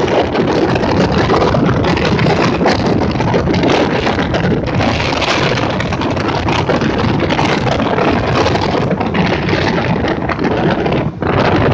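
Motorboat running at speed, its engine and the rush of wind and water mixed in one loud steady noise, with wind buffeting the microphone. The noise drops out for an instant near the end.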